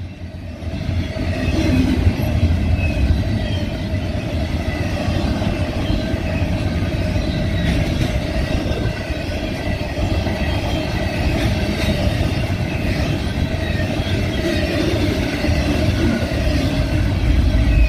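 Union Pacific double-stack intermodal well cars rolling past close by: a steady, loud rumble of wheels on rail with a steady ringing tone running over it. The sound swells about a second in.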